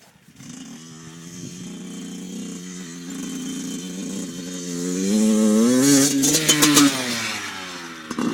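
Dirt bike engine accelerating. It rises in pitch and gets louder, is loudest with some clatter about six to seven seconds in, then the note drops and fades as the throttle eases off.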